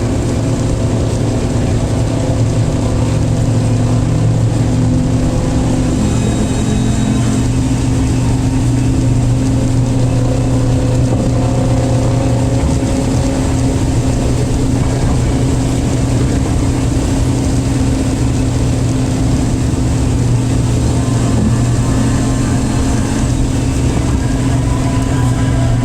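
Car engine and road noise while driving, a loud, steady drone that holds at an even pitch throughout.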